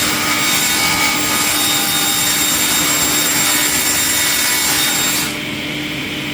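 Industrial wood chipper running and grinding wood: a loud, steady rush of noise over a steady hum. The high hiss drops away about five seconds in.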